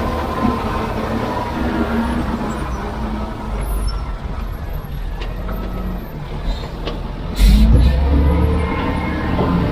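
Heavy diesel machinery engine running steadily with a low rumble. About seven and a half seconds in, a short, loud burst of noise comes with a surge in the rumble.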